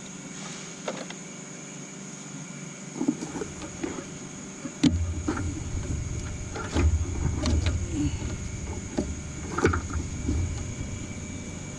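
Scattered knocks and clicks of engine parts being handled during cylinder head removal, with a low rumble of handling noise from about five seconds in.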